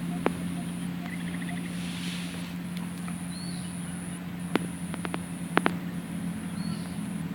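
Outdoor ambience: a steady low hum under a thin, high, on-off whine, with a couple of short bird chirps and a few sharp clicks.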